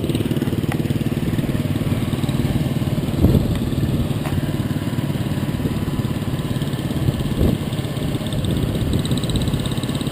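Motorcycle engine running steadily at low speed, with a short knock about three seconds in.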